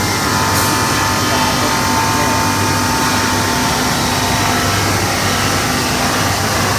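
CNC glass-cutting machinery running: a steady mechanical hum with a thin whine held over it.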